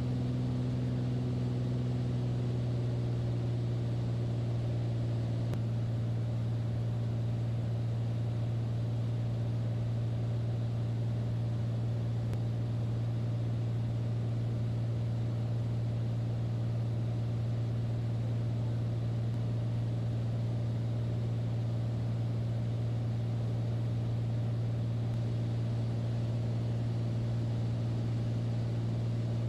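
Steady drone of a light airplane's piston engine and propeller in flight, holding one even pitch throughout.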